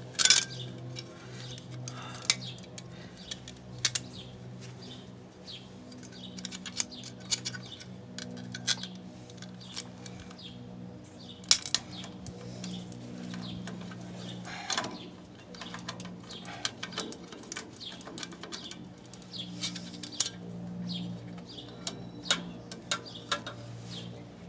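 Irregular light metallic clicks and clinks of small screws and carburetor parts being handled and fitted by hand, over a steady low hum.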